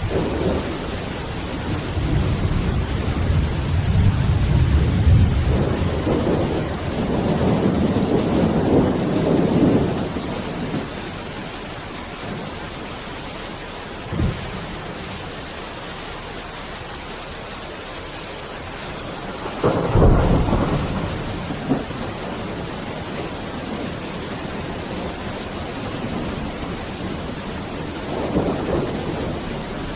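Steady rain with rolling thunder: a long rumble through the first ten seconds, a short crack about fourteen seconds in, a loud thunderclap about twenty seconds in, and another rumble near the end.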